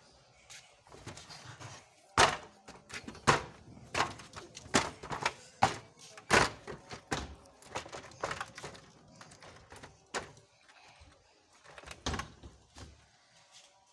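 A run of irregular sharp knocks and thuds, about one or two a second, thinning out in the second half.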